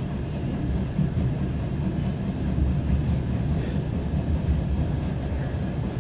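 DR1A diesel multiple unit running along the track: a steady low rumble.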